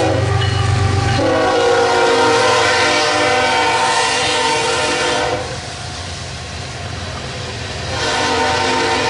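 Locomotive air horn sounding over the train's low rumble: a long blast of several notes together starting about a second in and lasting about four seconds, then another blast starting near the end.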